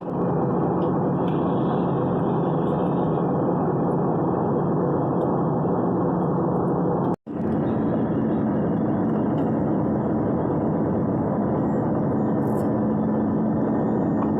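Airbus A320 airliner cabin noise: a steady rumble of engines and airflow with a steady low hum, cutting out for an instant about seven seconds in.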